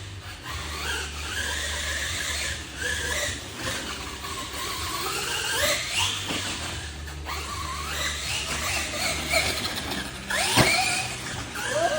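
Electric motors of radio-controlled monster trucks whining, the pitch rising and falling over and over as the throttle is worked, with sharp rises about six and ten seconds in.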